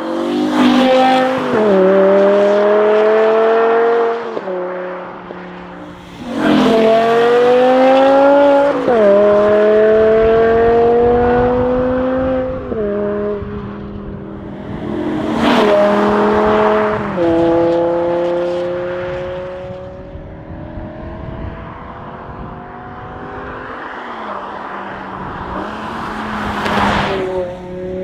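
BMW M5 E61 Touring's 5.0-litre V10 accelerating hard through the gears. The engine note climbs and then drops sharply at each upshift. This happens over several pulls, with the revs easing off slowly in between.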